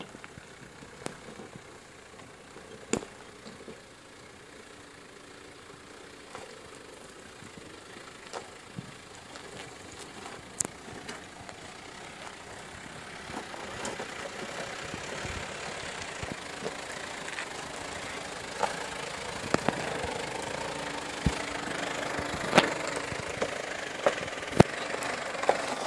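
An off-road 4x4's engine running, with scattered sharp knocks and clunks. The engine and the noise grow steadily louder through the second half.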